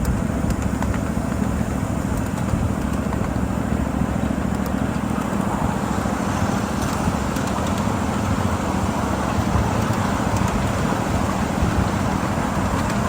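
7.5-inch gauge ride-on miniature train running along the track with a steady engine drone and a few light clicks.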